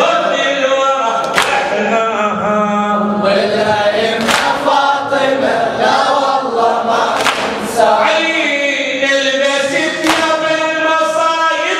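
Male chorus chanting a mournful Arabic latmiyya refrain in unison, with a sharp beat striking roughly every three seconds.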